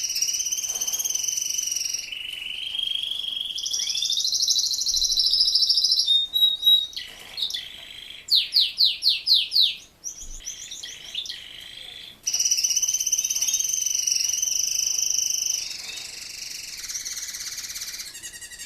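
Male Razza Espagnola canary singing a long continuous song of high rolling trills, rapid repeated chirps and sweeping whistled notes, with a short break about ten seconds in.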